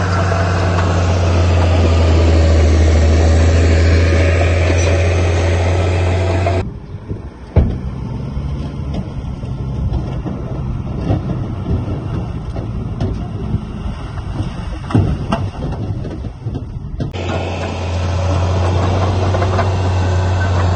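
Heavy diesel machinery engine running steadily with a deep drone. About six and a half seconds in the sound cuts abruptly to a thinner, duller engine noise with a sharp knock a second later and a few lighter clanks. About seventeen seconds in it cuts back to the steady deep drone.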